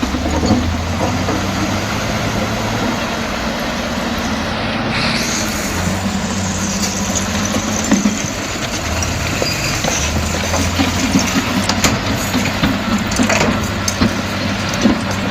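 Komatsu D68E crawler bulldozer's diesel engine running steadily under load, with frequent knocks and clanks from the steel tracks and the rock being pushed.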